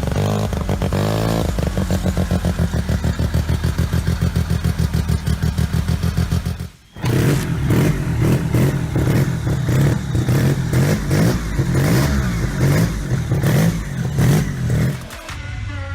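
A rotary-engined snowmobile running. For the first several seconds it holds a steady low speed with an even pulse. After a short break about seven seconds in, it revs up and down, and it cuts off just before the end.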